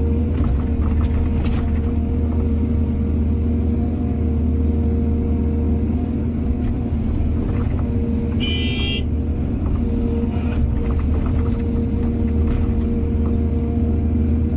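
Heavy diesel excavator engine running steadily, with scattered metallic clanks and a brief high-pitched squeal about halfway through.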